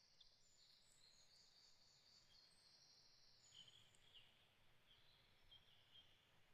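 Faint birdsong in a forest: high twittering phrases, then a run of short, lower chirps in the second half.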